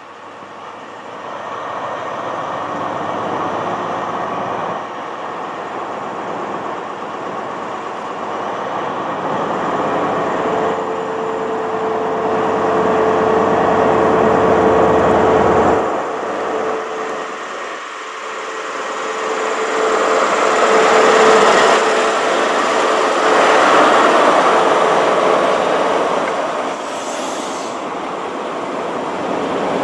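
An express passenger train approaching and passing close by at speed. The rumble builds over the first half, a steady hum sounds through the middle, and the sound is loudest as the coaches pass near the end.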